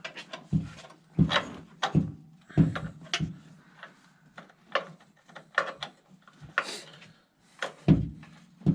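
A series of irregular knocks and clunks, tools striking metal, as an engine-mount bolt is worked loose and pushed out.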